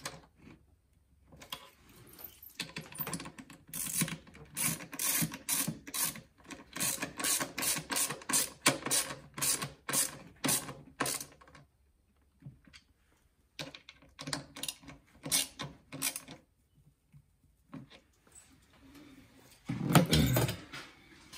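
Hand ratchet clicking in quick runs, with pauses, as screws are driven back into the plastic air filter housing. A single louder knock comes near the end.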